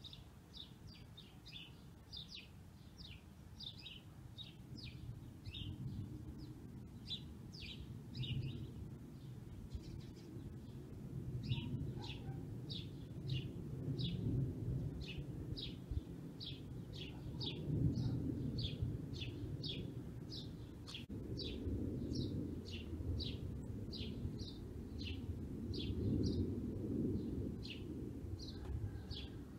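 A small bird chirping over and over, about two short high chirps a second, pausing briefly around ten seconds in, over a low rumbling background noise.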